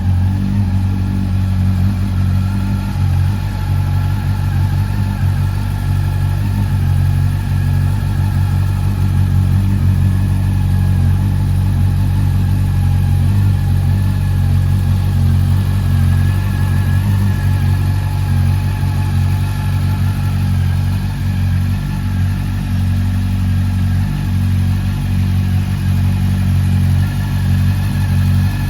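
2019 Honda CB400 Super Four VTEC Revo's inline-four engine idling steadily through a Yoshimura aftermarket exhaust.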